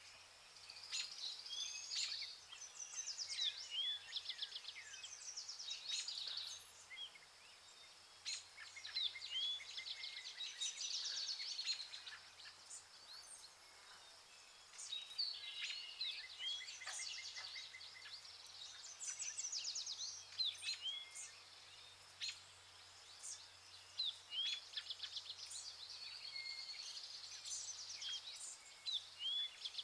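Several songbirds singing and calling, a busy mix of quick trills and short chirping notes that sweep up or down, coming in bursts with brief lulls.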